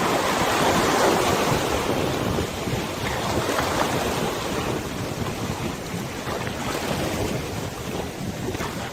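River water washing with wind buffeting the microphone, a steady rushing that is strongest in the first couple of seconds and then eases slightly.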